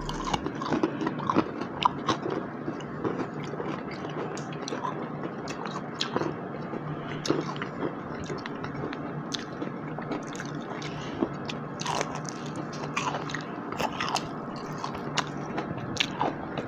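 Close-miked biting and chewing of breaded veggie fish sticks: scattered short crunches and wet mouth clicks over a faint steady low hum.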